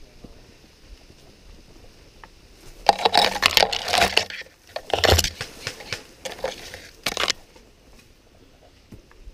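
Loud crunching and rustling close to the microphone, in several rough bursts between about three and seven seconds in, then quiet again.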